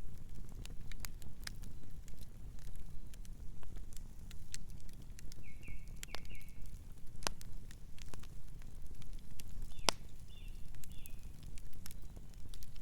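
Campfire crackling, with irregular sharp pops and snaps over a low steady rumble of burning wood. Nocturnal birds chirp softly in short bursts, once about halfway through and again near the end.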